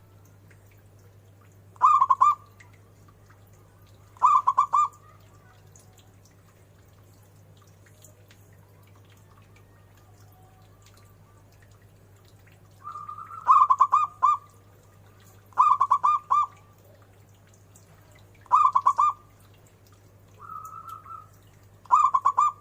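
Zebra dove (perkutut) cooing: six short phrases of quick repeated coos, each about half a second, spaced a few seconds apart, two of them led in by a softer drawn-out coo. A steady low hum runs underneath.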